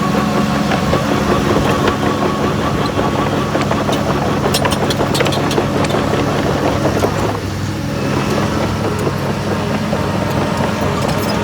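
Heavy earthmoving machinery's diesel engine running steadily, with a cluster of sharp clicks about four to five seconds in and a brief dip in the engine sound a couple of seconds later.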